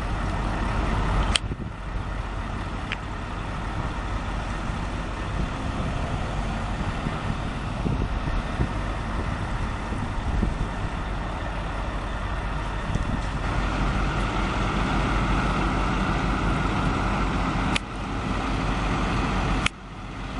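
Heavy tractor-trailer truck running nearby, a steady low rumble with road noise. A hiss grows louder about two-thirds of the way in, and a few sharp clicks stand out.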